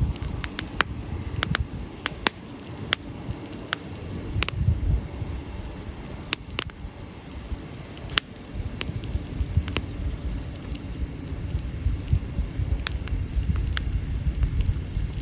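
Wood fire burning, with irregular sharp crackles and pops over a low rumble.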